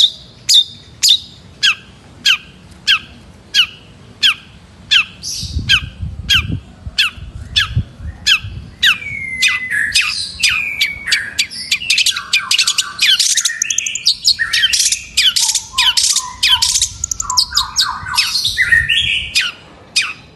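Long-tailed shrike calling in harsh, sharp notes repeated about twice a second, then breaking about nine seconds in into a fast, varied song of whistles, trills and chatter.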